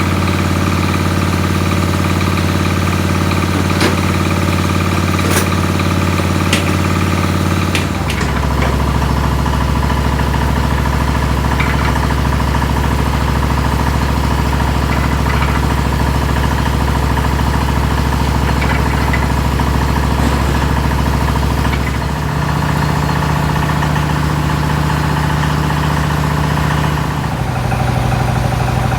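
A machine motor running steadily, its hum stepping abruptly to a different pitch about eight seconds in, again about 22 seconds in and once more near the end. A few sharp clicks sound over it in the first several seconds.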